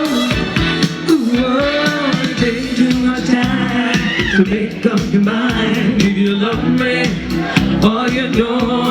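Live soul music through a large PA sound system: a singer's voice bending and sliding between notes over the band.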